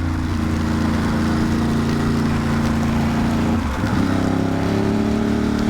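Ducati Monster's V-twin engine running steadily under way, with wind and road rush on the helmet mic. A little under four seconds in the engine note breaks briefly, then settles again slightly higher.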